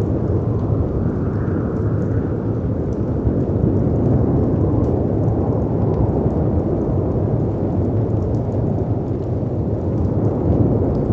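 Continuous low, rushing storm noise of howling wind and crashing sea waves, swelling and easing a little, with faint fireplace crackles ticking over the top.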